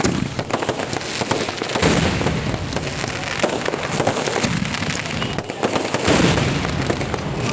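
Fireworks going off without a break: dense, rapid crackling bangs with louder surges every couple of seconds.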